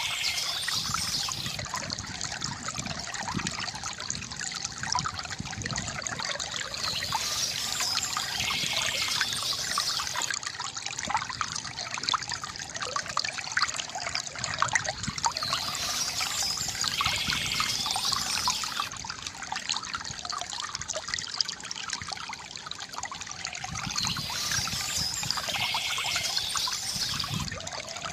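Shallow river water trickling and gurgling over stones, full of small quick splashes, with a brighter surge coming back about every eight seconds.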